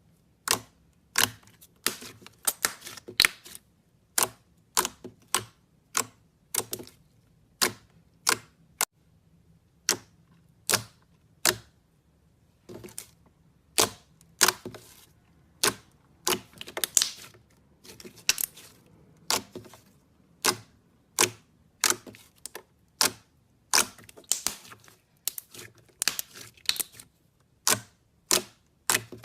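Slime being pressed and worked by hand, making an irregular run of sharp popping clicks, about one or two a second.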